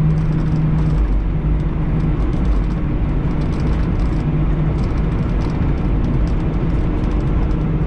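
Semi truck's diesel engine running steadily with road noise, heard from inside the cab: a constant low drone with a hum that fades in and out.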